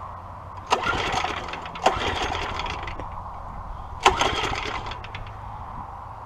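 Three pulls on the recoil starter of a mini bike's small Tecumseh engine, each spinning the engine over briefly before it dies away without catching: a hard restart after the engine stalled, with the carburetor still running lean.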